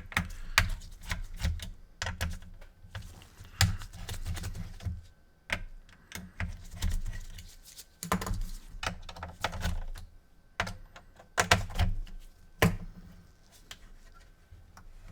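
Irregular clicks, taps and knocks of hard plastic and metal as a PS4's cooling fan is worked loose from inside the opened console, coming in clusters with low thuds and thinning out over the last couple of seconds.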